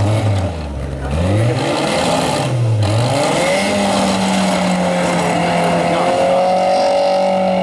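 Rally car's engine revving up and down several times, then held steadily at high revs from about three and a half seconds in, as the car, stuck off the track, is pushed by helpers to get it moving again.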